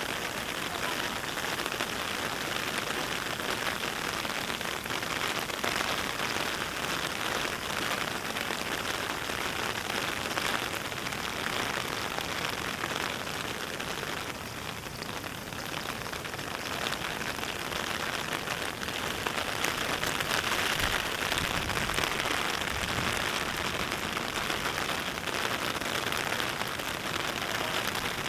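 Heavy rain falling steadily: a dense, even patter of raindrops.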